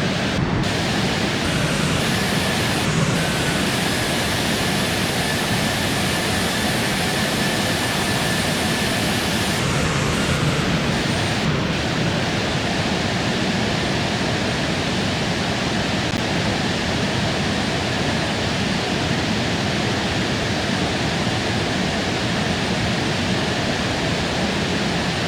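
Steady airliner cabin noise heard from a passenger seat: an even rush of jet engines and airflow. A faint high whine sits over it from about two to ten seconds in.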